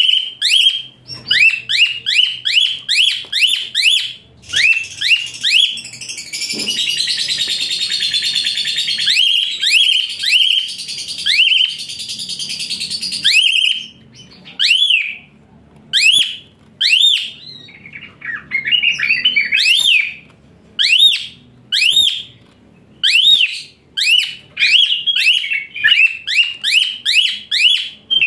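Black-collared starling (jalak suren) calling in a loud series of shrill, high, whipping notes, about two a second, with a harsh rasping chatter about a quarter of the way in.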